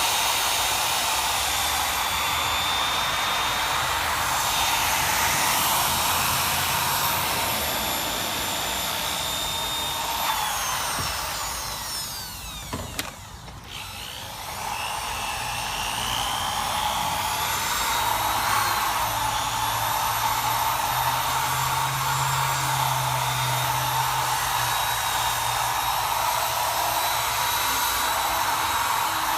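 Electric drill spinning a wetted 3M sanding disc against a plastic headlight lens, a steady motor whine. About halfway through the drill winds down and nearly stops, then spins back up to speed.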